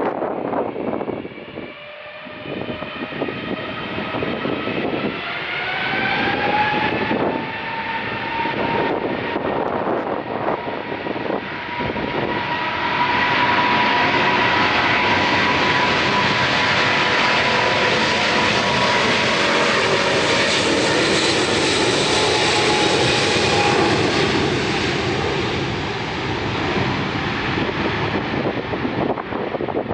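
Airliner's engines passing close by: a whine that climbs slightly in pitch as it approaches, swelling into a loud, steady engine noise for about ten seconds midway, then fading.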